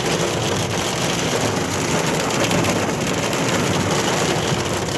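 Heavy storm rain beating steadily on a car.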